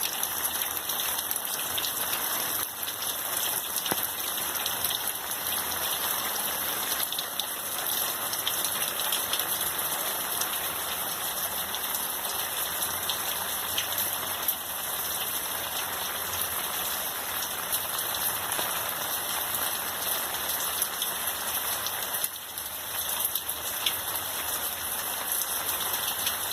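Steady rain falling on plants and surrounding surfaces, an even noise with scattered drop ticks.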